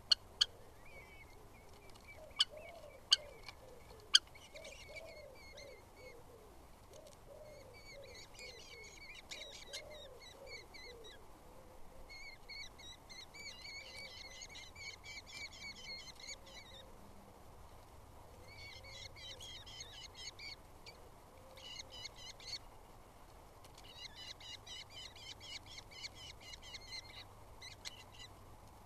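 Small birds chirping in rapid bursts of high calls, each burst lasting a few seconds and repeating, over a low cooing in the background. A few sharp knocks sound in the first few seconds.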